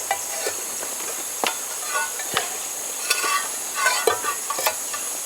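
Outdoor ambience of a steady high-pitched insect drone, with irregular sharp pops and crackles and a few short chirps.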